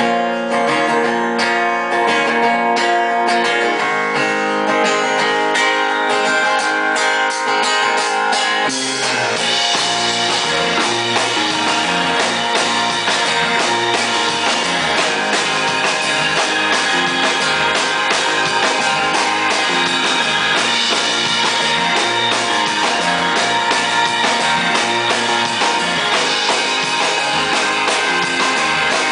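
Live band playing a song's instrumental intro: a guitar plays alone for about the first nine seconds, then bass and drums come in and the full band plays on.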